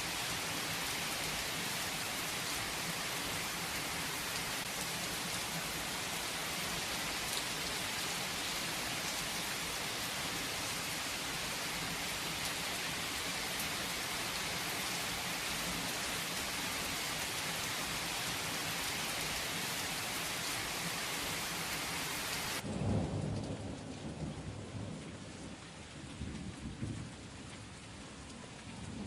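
Steady rain that cuts off abruptly about three-quarters of the way through, followed by low rumbles of thunder.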